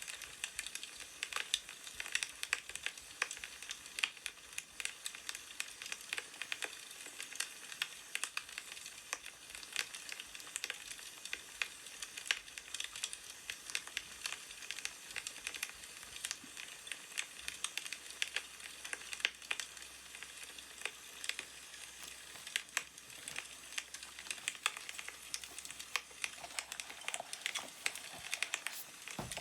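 Wood fire crackling, with a dense run of irregular pops and snaps over a soft hiss.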